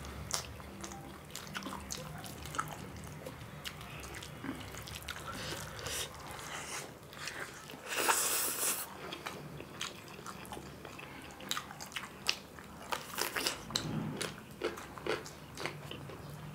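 Close-miked eating: two people chewing and biting rice and fried chicken wings, with many short wet mouth clicks and smacks. A louder bite comes about eight seconds in.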